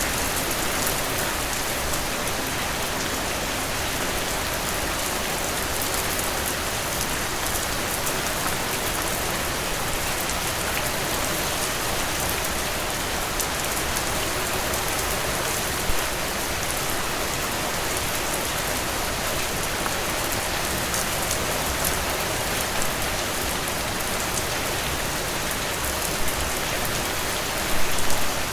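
Heavy rain pouring steadily, a dense even hiss of drops hitting surfaces. A few brief louder moments stand out, one about halfway through and a short cluster near the end.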